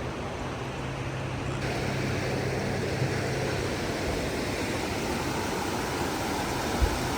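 Steady rushing of creek water, a continuous hiss that turns brighter about one and a half seconds in. A short low thump near the end.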